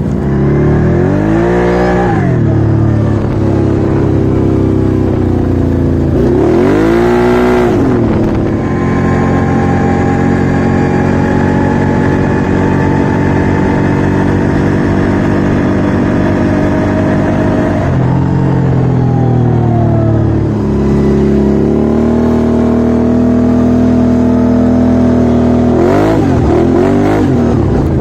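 Off-road vehicle engine running hard, its pitch rising and falling with the throttle: sharp revs about two, seven and twenty-seven seconds in, with long steadier stretches between.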